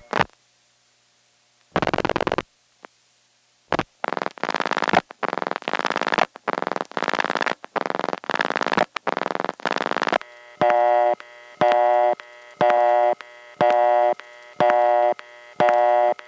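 Telephone line audio from the end of a call into a step-by-step exchange: a few clicks, then several seconds of rough purring noise as a connector switch hunts over a business's 50 lines and finds them all busy. About ten seconds in it gives way to a Bell System busy signal, a tone beeping on and off about once a second.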